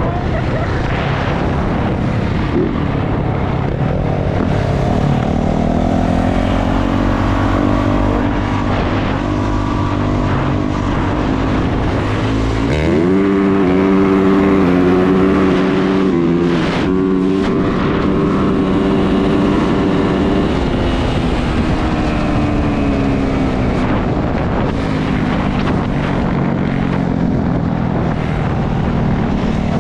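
450cc four-stroke dirt bike engine under way, its pitch climbing and dropping as the throttle is worked through the gears, with a sharp rise in revs about 13 seconds in and a long fall about 20 seconds in. Wind noise rushes over the microphone underneath.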